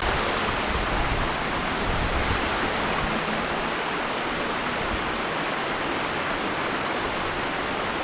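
Cascade Falls, a mountain waterfall, pouring in a steady rushing hiss of falling water.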